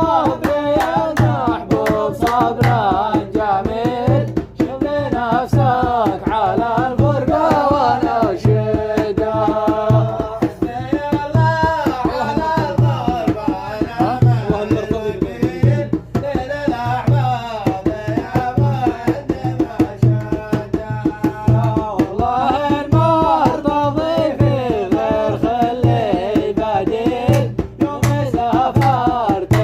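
Arabic song: a voice singing a wavering, ornamented melody over a steady, low drum beat.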